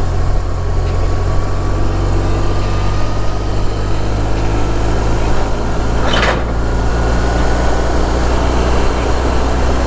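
BMW R1200's boxer-twin engine running steadily under way, with a faint whine slowly rising in pitch and a brief hiss about six seconds in.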